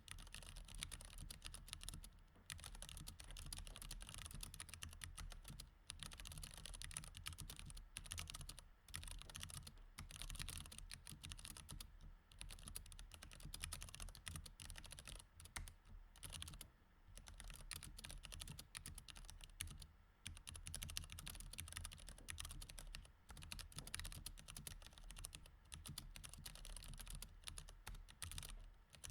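Continuous typing on a mechanical keyboard with Cherry MX Red switches: a dense run of key clicks broken by short pauses every few seconds.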